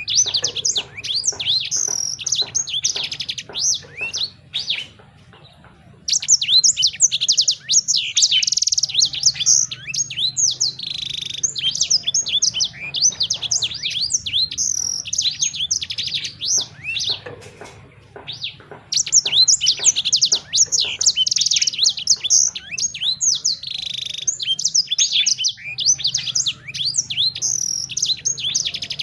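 Songbird singing a fast, dense run of high chirps and trills, broken by two short pauses, over a faint low hum.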